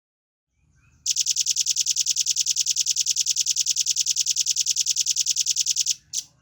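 Velvet-fronted nuthatch (red-billed nuthatch) giving a long, fast trill of evenly spaced high notes, about eleven a second, for about five seconds, followed by one short single note.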